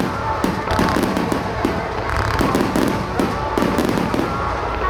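Aerial firework shells bursting in rapid succession, several sharp bangs a second, with music playing over the show's loudspeakers.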